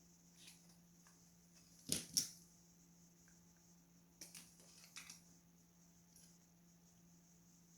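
Two sharp clicks about two seconds in, then a few lighter clicks around four to five seconds, over a faint steady hum.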